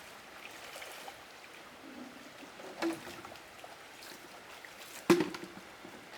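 Water trickling and splashing, with two sharp knocks: a lighter one near the middle and a much louder one about five seconds in, each with a short ring after it.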